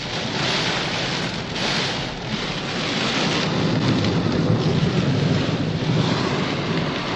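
Torrential wind-driven rain lashing the car's windscreen and side window, heard from inside the cabin as a dense, loud hiss that swells in gusts, with a heavier low rumble of wind and water building in the second half.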